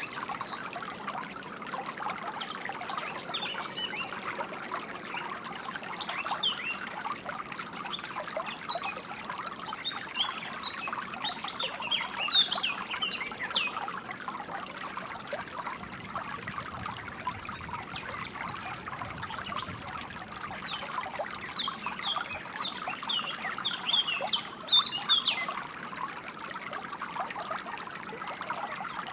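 Flowing water trickling steadily, with songbirds chirping in quick high notes that come in two spells, one from a few seconds in to about the middle and another past two-thirds of the way through.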